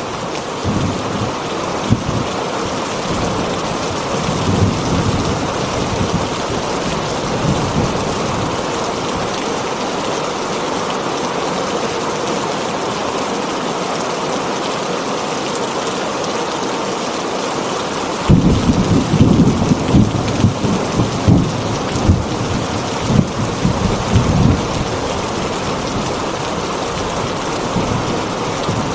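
Steady rain drumming on a tin roof, an even hiss. Irregular low rumbles come through it, heaviest for several seconds in the second half.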